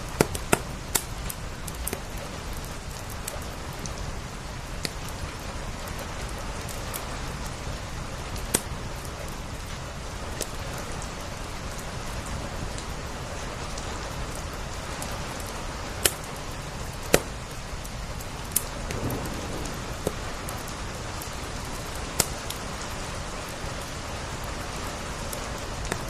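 Steady rain on window glass with a wood fire crackling: a constant hiss broken by scattered sharp pops, a few near the start and the loudest two in the second half.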